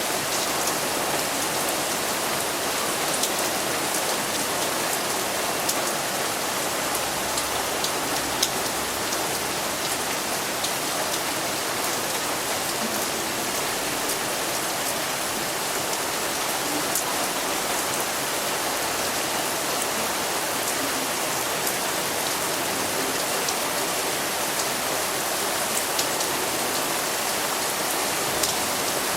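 Steady thunderstorm rain falling, an even hiss with scattered sharp ticks of single drops.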